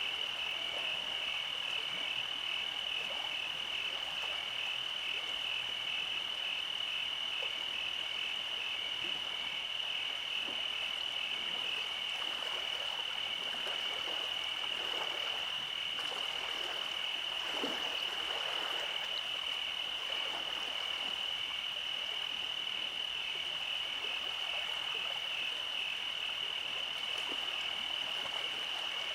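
A night chorus of frogs croaking over a steady high-pitched trill, with scattered individual calls rising out of it now and then.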